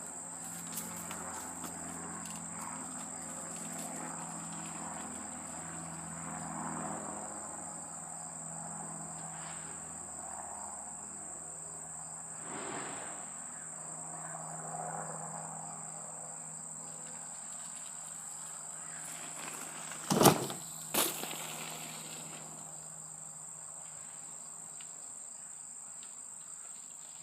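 Insects chirring in a steady high-pitched drone, with two sharp knocks close together about two-thirds of the way through.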